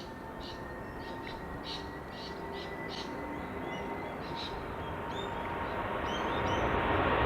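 Small birds chirping repeatedly over the rising noise of a jet airliner on takeoff, a Boeing 787-8. The jet's noise, with a faint steady whine, grows steadily louder toward the end as the aircraft approaches.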